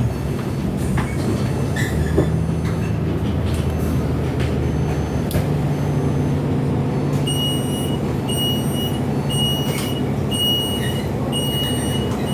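Bus engine and road noise, heard from inside the cabin, run steadily. About halfway through, a high electronic beep starts repeating: five beeps, about one a second.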